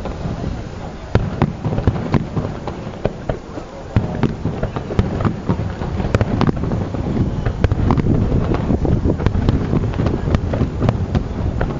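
Fireworks display: a dense run of bangs and crackles, many reports overlapping over a constant low rumble, with a brief lull about four seconds in.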